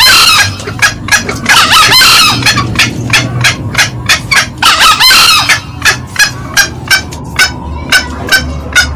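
Green junglefowl calls from a lure recording. Short clucks repeat steadily, about two to three a second, typical of the hen's cackling. Three short, hoarse crows of the male come near the start, about two seconds in and about five seconds in.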